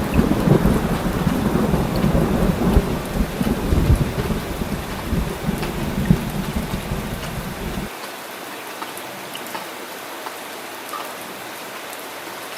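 Heavy rain falling steadily with rolling thunder rumbling under it; the thunder cuts off abruptly about eight seconds in, leaving only the steady hiss of rain.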